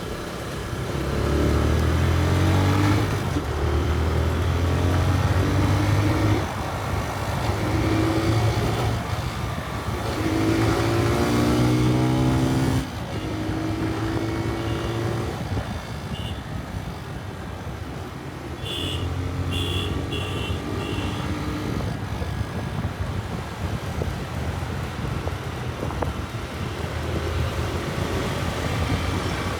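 TVS Raider 125 motorcycle's single-cylinder engine accelerating through the gears, its pitch rising in each gear and dropping at each shift several times, then running at a steadier cruise.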